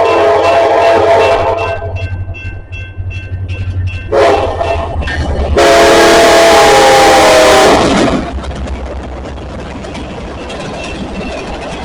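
CSX freight locomotive's air horn sounding several blasts over the low rumble of the engine: one long blast, a short one about four seconds in, then the loudest long blast. Afterwards the train rumbles steadily past.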